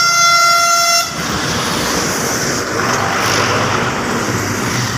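A vehicle horn sounds once, a single steady note held for about a second at the start. Steady rushing background noise follows.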